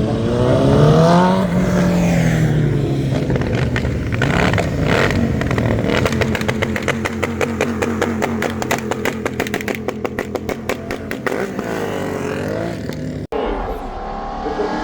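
A racing car's engine revs up with its pitch rising, then runs on with a rapid crackling from the exhaust for several seconds. The sound cuts off sharply near the end.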